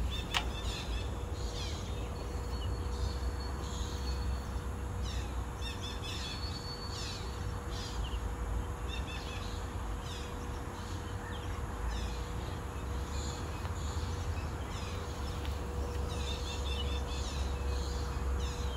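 Small birds chirping repeatedly, many short falling chirps scattered throughout, over a low steady rumble and a faint steady hum.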